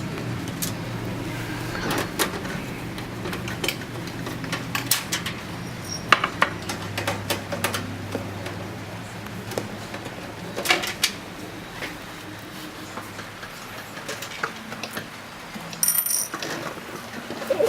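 Scattered metallic clicks and light knocks of a screwdriver, screws and sheet-metal parts while a desktop computer's power supply is unscrewed from its case, over a steady low hum.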